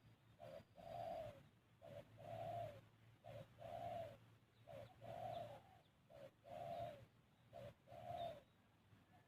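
A dove cooing over and over, each call a short note followed by a longer one, about seven calls in steady succession. A faint high chirp from another bird comes twice.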